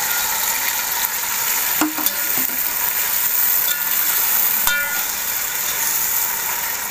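Marinated chicken pieces sizzling steadily in hot oil in a metal pot while a spoon stirs them, with a few sharp clinks of the spoon against the pot.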